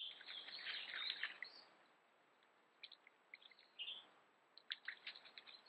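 Faint bird chirps: a quick run of high chirps for about the first second and a half, then scattered single short chirps.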